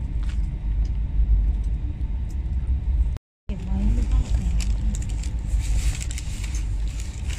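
Steady low rumble of a high-speed train running, heard inside the carriage, with light clicks and rustling in the second half. The sound drops out completely for a moment a little after three seconds.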